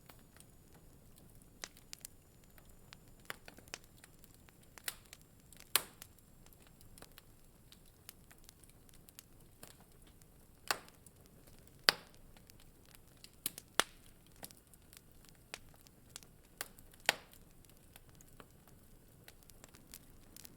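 Wood fire crackling in a fireplace: scattered sharp pops and snaps at irregular intervals over a faint steady hiss, with a handful of louder snaps among them.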